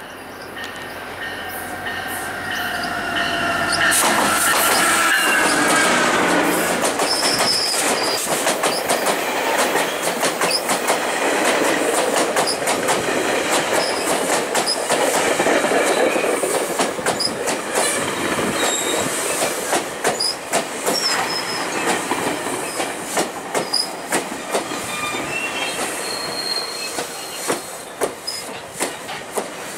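Commuter train of bilevel coaches led by an MP40 diesel locomotive pulling into a station. It grows louder as the locomotive approaches and passes about four seconds in, with a whine that falls slightly in pitch. Then the coaches roll by with wheels clicking over rail joints and brief high squeals of braking, and the clicks space out and soften as the train slows near the end.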